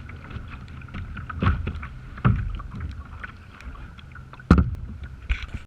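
Kayak out on the water, with wind rumbling on the microphone. Several sharp thumps and splashes stand out, the loudest about four and a half seconds in.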